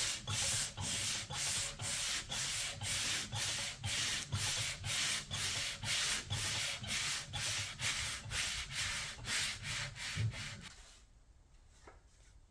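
Sandpaper rubbed back and forth by hand, stripping old paint and finish, in quick even strokes of about three a second; the sanding stops near the end.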